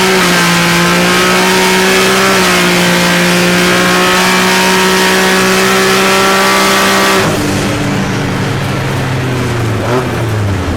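Nissan 300ZX's V6 engine running at a steady high engine speed, its note holding nearly level with a small dip about two seconds in. About seven seconds in it drops abruptly to a lower engine note that wavers up and down near the end.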